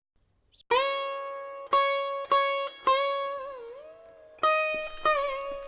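Background music: a plucked string instrument playing slow single notes, each struck and left to fade, some bent up or down in pitch. It enters after a brief hush at the start.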